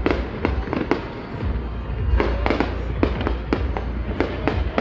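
Fireworks display going off in a rapid run of sharp bangs and pops, about three or four a second, over a steady low rumble.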